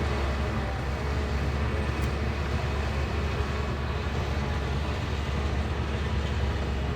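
Diesel engine of a Shantui crawler bulldozer running steadily, a deep, unbroken rumble with dense mechanical noise over it.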